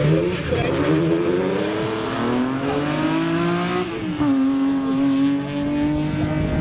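Slalom car's engine at full throttle, its pitch climbing steadily for about three seconds, then dropping sharply at a gear change about four seconds in before it pulls again.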